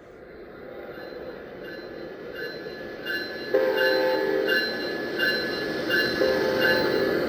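Recorded North American locomotive sounds from a model-railroad sound card, fading in: a locomotive bell ringing steadily about every two-thirds of a second, with two horn blasts of about a second each, a little over three seconds in and near the end, over a rising rumble.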